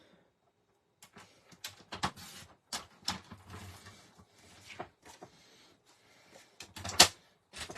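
Paper and card stock being handled on a desk: a run of rustles, taps and clicks after a quiet first second, with the loudest sharp click about seven seconds in.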